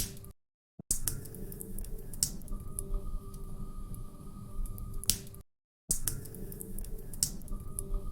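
Wood fire crackling in a fireplace: irregular sharp pops and snaps over a steady low rumble of burning logs. The sound cuts out completely twice, briefly, about half a second in and again about five and a half seconds in.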